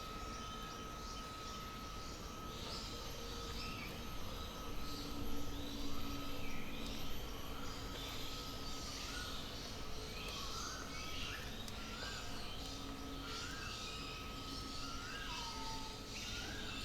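Several birds chirping and calling over a steady background hum, busiest a few seconds in, with one bird repeating a short rising note roughly every second in the second half. A thin steady whine runs under it and fades near the end.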